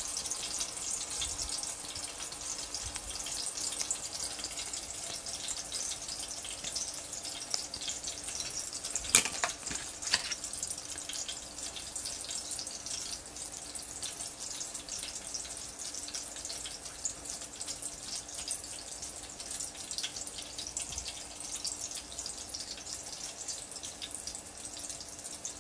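Beef seekh kababs shallow-frying in oil over a medium flame: a steady, fine crackling sizzle. A sharp click about nine seconds in, and a fainter one a second later.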